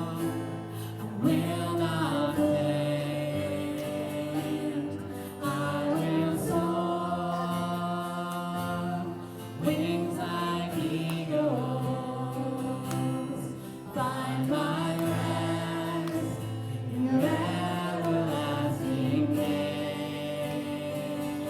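Gospel worship music: voices singing slow held phrases over sustained instrumental backing, with a new phrase starting about every four seconds.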